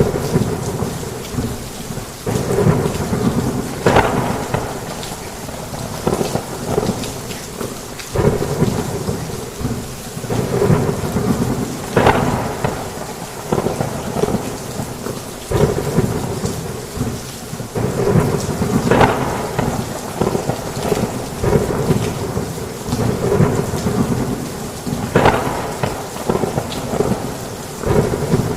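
Heavy rain on a roof with continuous rolling thunder, the rumble swelling and easing, with sharp cracks every several seconds.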